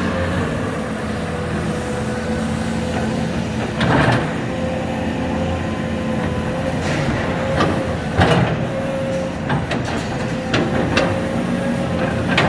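Heavy diesel excavators running steadily at a demolition site, with a steady whine over the engine drone. Sharp clanks and crashes of demolition work come every few seconds, the loudest about four seconds in and a cluster around eight seconds in.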